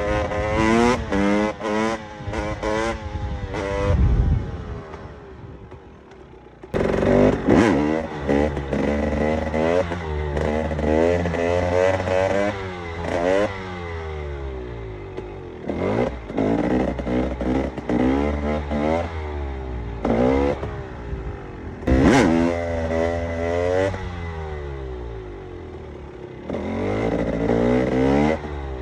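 KTM EXC 300 two-stroke single-cylinder engine revving hard through the gears, its pitch climbing in repeated sweeps and dropping back at each shift or roll-off. Around 4 seconds in it falls away to a quieter coast, then comes back sharply under throttle a couple of seconds later, with sharp cracks scattered through.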